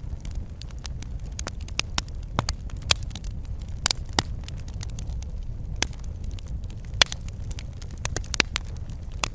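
Wood fire crackling in a fireplace: irregular sharp pops and snaps over a steady low rumble of the flames, with one louder pop about seven seconds in.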